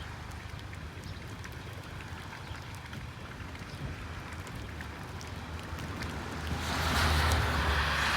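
Outdoor noise, a steady low rumble with a hiss over it, that swells louder about six and a half seconds in.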